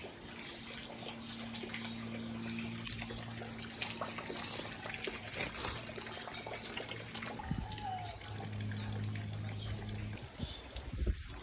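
Rain falling, with water trickling and a steady patter of many small drops. A steady low hum runs underneath part of the time.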